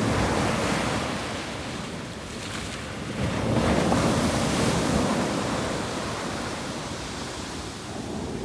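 Wind buffeting the microphone: a low rushing noise with no tone in it, swelling about three seconds in and slowly easing off.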